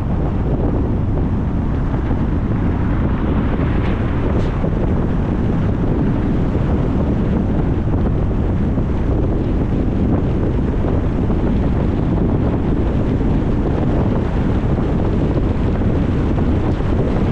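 Steady low rumble of wind buffeting the microphone of a camera on a moving car, mixed with road noise.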